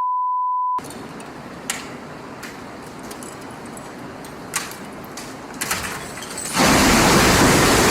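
A steady one-pitch censor bleep for under a second, then a quiet background with a few faint clicks, until a loud rushing noise starts near the end and holds.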